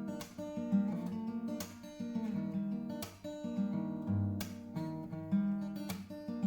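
Solo acoustic guitar music: picked notes ringing over chords strummed every second or so.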